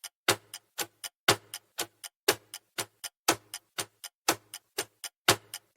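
Countdown-timer clock sound effect ticking evenly, about four ticks a second with a louder tick once each second.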